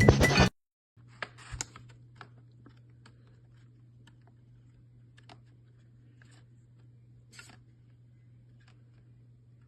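Loud music cuts off about half a second in. After that come faint, scattered light clicks and taps over a steady low hum.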